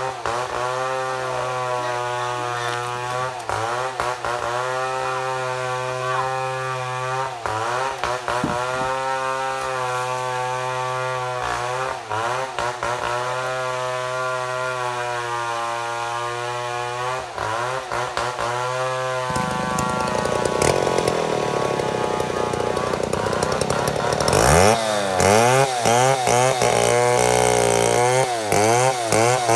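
Chainsaw milling a mahogany log, the engine running at high revs under load in the cut, its pitch sagging briefly now and then and recovering. Toward the end the pitch swings up and down repeatedly.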